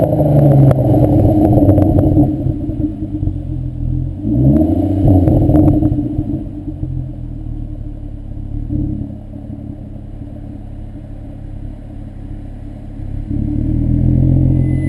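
VW mk4 2.8 VR6 24-valve engine through a Milltek non-resonated exhaust, pulling under throttle. The revs rise and fall quickly about four seconds in, then it cruises more quietly for several seconds before building louder again near the end.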